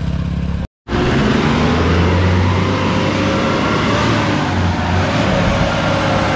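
After a short break in the sound, a stuck white SUV's engine revs loudly and steadily under throttle as men push it through deep mud.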